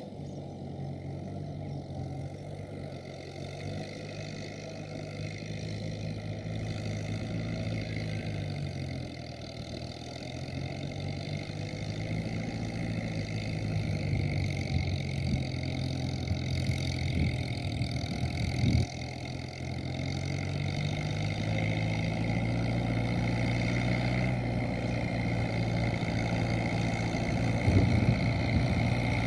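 Kubota M7040SU tractor's four-cylinder diesel engine running under load while ploughing a rice field. The engine note sags about a third of the way in, then picks up again and grows slowly louder. There is a brief knock about two-thirds through.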